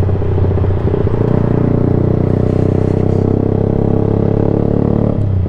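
Yamaha YZF-R sportbike engine running loud through a Black Widow exhaust can with no baffle, on a decat bike. The engine note wavers in the first second, then holds steady, with a change near the end.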